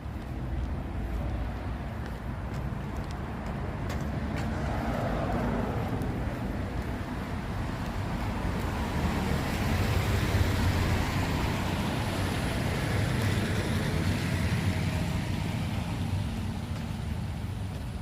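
A motor vehicle driving past on a wet street: engine rumble and tyre hiss that swell to their loudest about ten seconds in, then fade.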